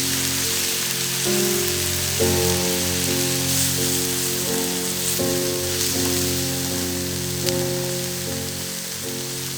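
Food sizzling on a thick steel griddle plate, a steady hiss, under background music of changing chords. One sharp crackle sounds about seven and a half seconds in.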